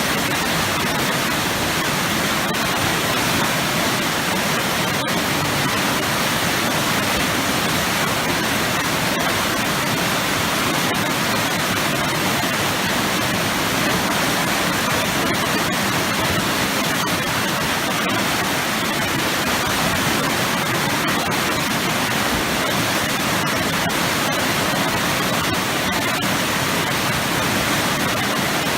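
Waterfall with powerful churning water, a loud steady rushing roar without a break.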